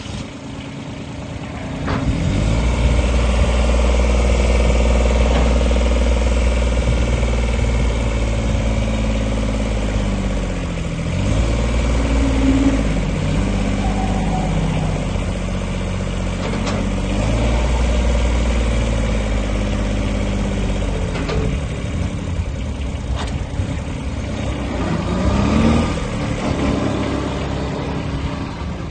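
Kubota B1610 compact tractor's diesel engine running, picking up speed about two seconds in and then slowing and speeding up again several times.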